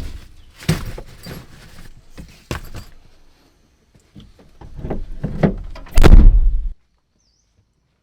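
A series of irregular knocks, thuds and rustling from objects being handled, building to the loudest stretch of thumping about six seconds in, then stopping abruptly.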